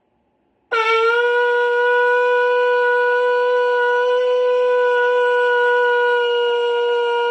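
Shofar blown in one long, steady blast that starts a little under a second in with a brief upward scoop in pitch, then holds a single note.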